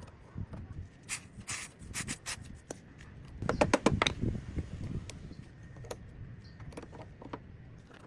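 Light clicks and knocks of tools and metal parts being handled, with a short squeaky rubbing scrape about three and a half seconds in, then a few scattered ticks.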